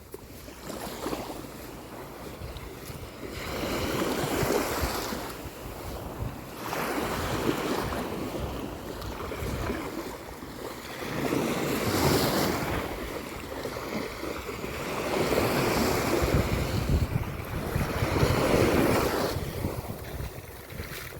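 Sea waves washing onto a beach, the surf swelling and falling every few seconds, with wind buffeting the microphone.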